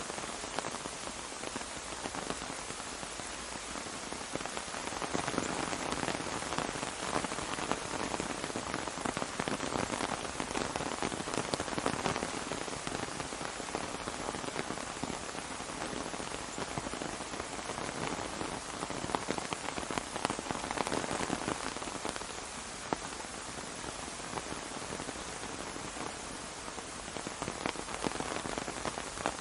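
Steady rain pattering on an umbrella, a dense stream of drop hits. It is heavier through the middle and eases for a few seconds near the end.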